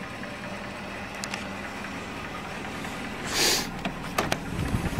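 Car engine idling with a steady low hum. A short hiss comes about three and a half seconds in, and a few sharp clicks come near the end.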